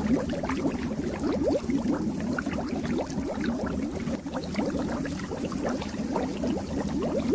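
Water bubbling steadily in a fish tank: a dense stream of small bubbles, each a short rising blip.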